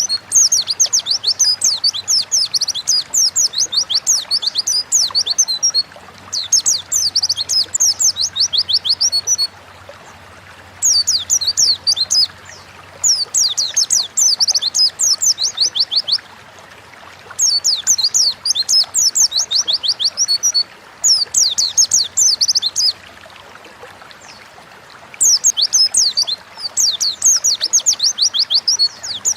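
White-eye (pleci) singing, rapid high twittering phrases a few seconds long, broken by short pauses.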